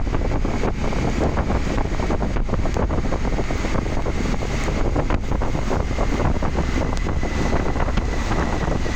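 Steady, heavy wind buffeting on the microphone, over a low rumble, while riding a motorcycle.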